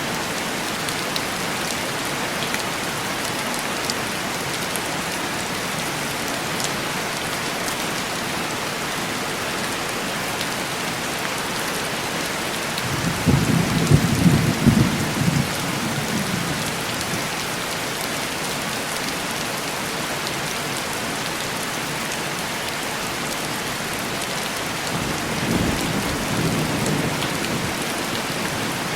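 Steady heavy rain on window glass, with a crackling roll of thunder about halfway through, the loudest sound, and a softer rumble of thunder near the end.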